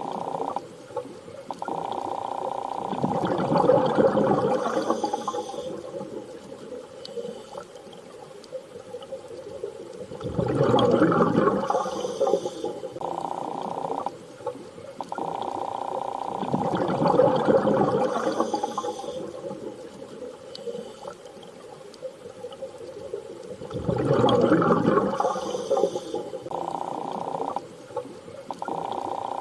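Underwater-style ambience: swells of rushing, bubbling water rise and fall about every six to seven seconds over low, steady droning tones, the pattern repeating like a loop.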